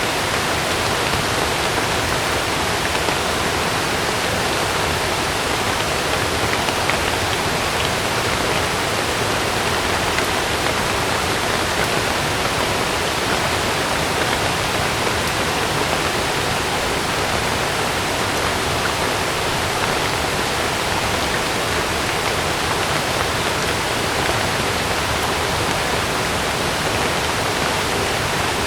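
Heavy rain pouring steadily, a dense even rush of water with no single drops or thunder standing out.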